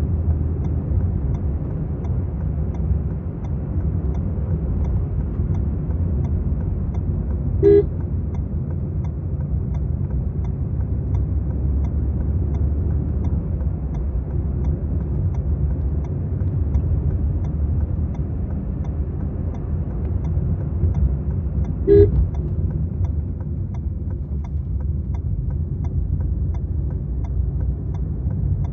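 Maruti Suzuki Swift VXi being driven: a steady low rumble of engine and road noise. A short car-horn toot comes about eight seconds in and another about twenty-two seconds in.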